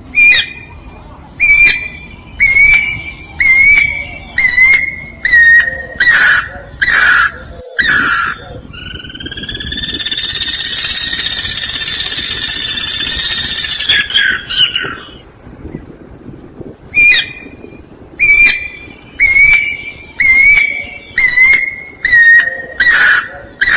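Guira cuckoo calling: a series of loud whistled notes about one a second, then a long steady whistle of about five seconds, then another run of notes.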